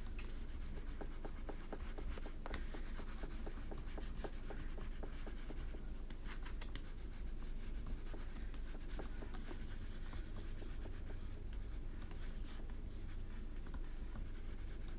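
Coloring on paper: a coloring stick scratching back and forth across the page in many quick, steady strokes.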